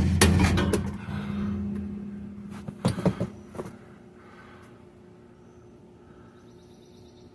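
Quick hammer blows on metal, driving a part into a rear differential housing, stop about a second in, leaving a short fading ring. A few lighter metal clicks follow around three seconds in, then only faint background.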